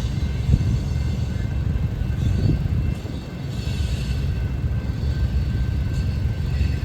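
Train rolling past, a steady low rumble with faint high steady tones above it.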